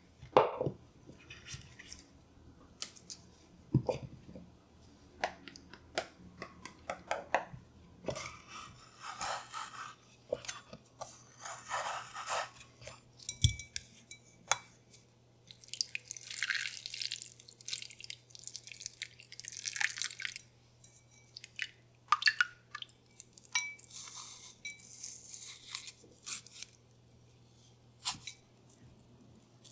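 Kitchen handling sounds: scattered clinks and knocks of dishes and utensils, with a few stretches of hissing noise lasting a few seconds each, and a faint steady low hum underneath.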